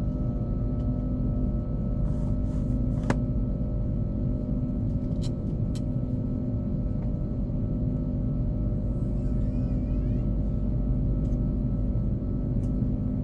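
Steady cabin noise of an Airbus A330-300 airliner: a low rumble with several steady hums layered over it, and a few faint clicks between about two and six seconds in.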